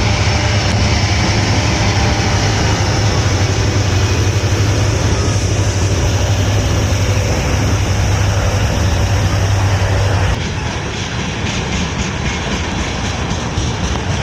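A train running past: loud rushing noise over a steady low engine drone. About ten seconds in, the sound drops in level and the drone stops, leaving rushing noise with light, evenly repeated clicks.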